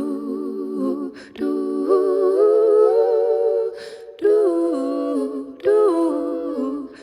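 A cappella vocal harmony: several layered voices hum chords that step from one to the next, in three phrases separated by short pauses.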